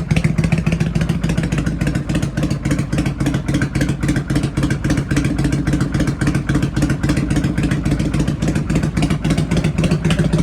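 Kawasaki Vulcan 400 Drifter V-twin engine idling steadily through a modified exhaust, with an even, rapid pulsing beat and no revving.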